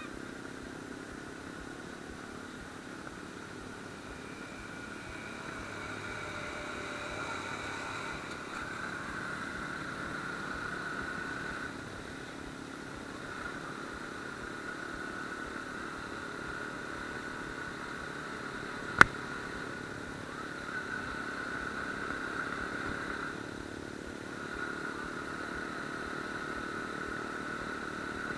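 Suzuki Gixxer motorcycle's single-cylinder engine running steadily as it is ridden, its note shifting a few times. One sharp click about two-thirds of the way through.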